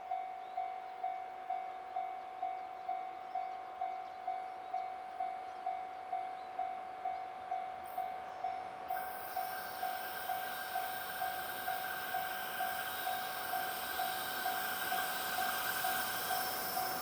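A railway level-crossing warning bell dings steadily, about twice a second. From about halfway through, the rising rush of an approaching EH500-hauled freight train builds underneath it.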